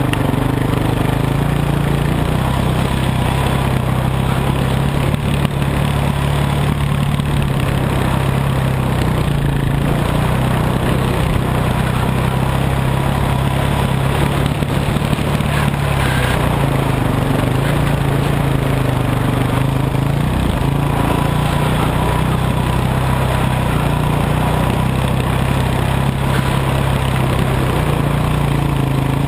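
Dirt bike engine running at a fairly steady pitch, with a continuous rushing noise over it.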